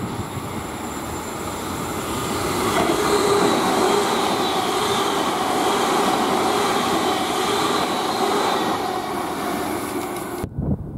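Electric suburban train running through the station: the rumble of wheels on rail builds as it nears and passes, with a steady whine over it. The sound cuts off abruptly shortly before the end.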